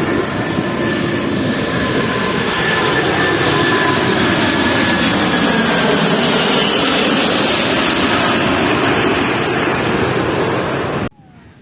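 Jet airliner passing low overhead on landing approach: loud engine noise with whining tones that glide slowly in pitch. It cuts off abruptly about 11 seconds in.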